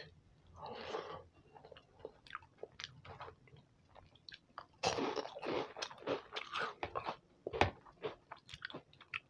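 Close-miked eating sounds: soft chewing of khichdi with small mouth clicks, then a crisp fried papad fryum bitten and crunched about five seconds in, a run of crunches with the sharpest one near the end.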